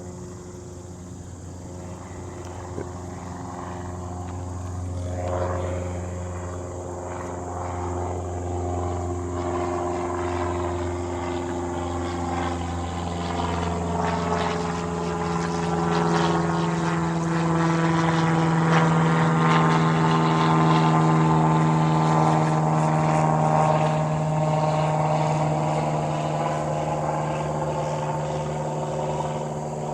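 Airplane passing overhead after takeoff. The steady engine sound builds, is loudest about two-thirds of the way through, then eases slightly, its tones sweeping as the plane goes by.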